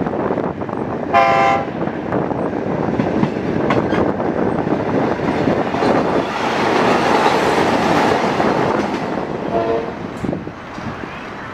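Passenger train running on the rails, heard from an open carriage window, with rushing wind and wheel noise and some clicks over the rail joints. A short train horn blast sounds about a second in. The rushing swells for a few seconds mid-way as a diesel railcar passes on the next track, and a second, fainter horn note comes near the end.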